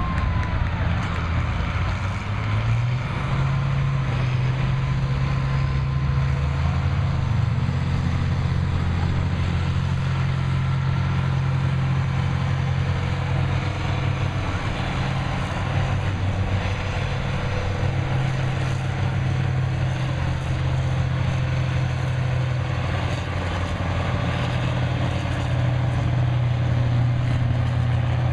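Farm stock pulling tractor's engine running hard under load, a loud steady drone whose pitch steps up slightly about two to three seconds in.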